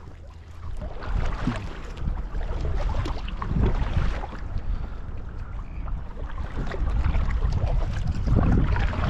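Wind buffeting the microphone as a heavy low rumble that grows louder about a second in, with water splashing around a kayak.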